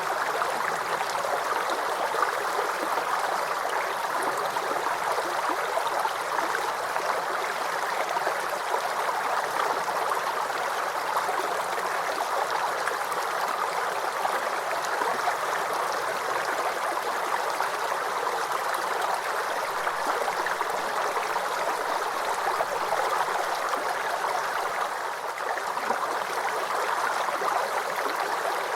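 Small forest creek babbling and gurgling over stones, a steady, unbroken water sound.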